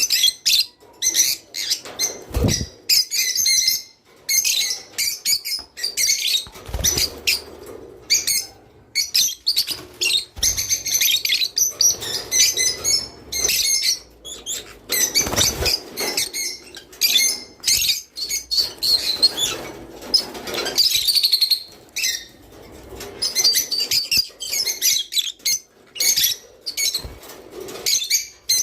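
A group of rosy-faced lovebirds chirping and chattering in quick, shrill, overlapping calls, with a few short low thuds of wings or movement in the cage.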